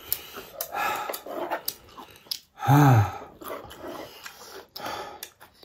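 Close-up eating sounds: chewing and mouth noises, with short clicks of chopsticks. About three seconds in comes one loud, short voiced sound that rises and then falls in pitch.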